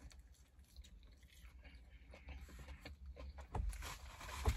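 Faint close-up biting and chewing of a beer-battered shrimp taco in a soft tortilla: small wet mouth clicks over a low hum, growing a little louder after about three and a half seconds, with a soft thump near the end.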